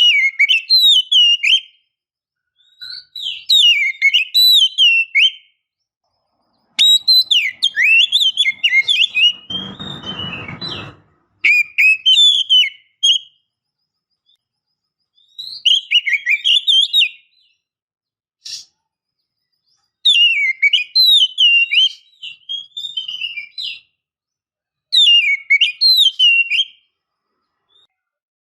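Oriental magpie-robin (kacer) calling in repeated phrases of quick, twisting whistles and chirps with short silent gaps between them: a female's call used to rouse male magpie-robins into song. A short burst of low, noise-like sound comes about ten seconds in.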